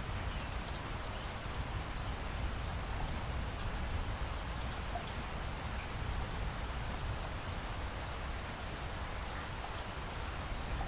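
Steady rainfall, an even hiss with faint scattered drop ticks and a low rumble underneath.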